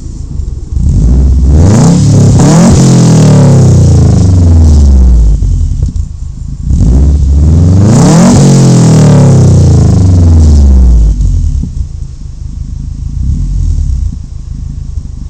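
Subaru WRX's turbocharged flat-four engine with a turbo-back exhaust, revved twice: each time the pitch climbs quickly, then falls back over a few seconds, and it settles to a lower, rougher idle for the last few seconds. Very loud.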